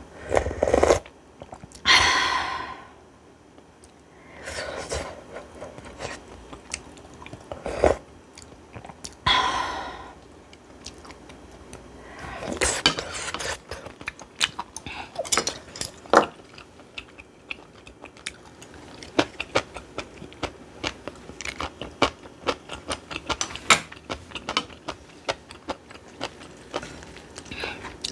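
Close-miked chewing and crunching of a mouthful of bibimbap with aged cucumber. It comes in several louder bouts over the first half and gives way to many quick small clicks and smacks near the end.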